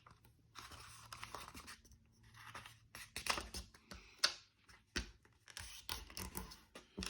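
Sheet of origami paper rustling and crinkling as it is folded diagonally in half and the crease is pressed down, with several sharp crackles through the middle.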